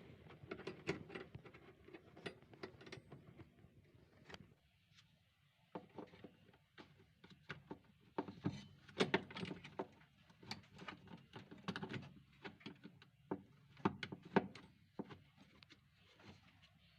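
Irregular light knocks, clicks and rattles of hard objects being handled, coming in clusters with short pauses between them.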